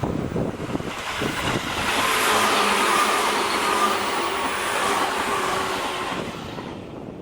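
A Tobu electric commuter train passing on the rails: wheel and running noise with a steady high whine. It builds over the first two seconds and fades away near the end.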